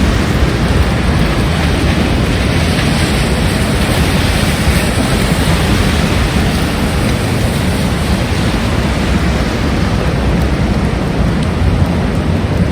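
Heavy rain falling in strong wind: a steady, dense hiss with a low rumble underneath.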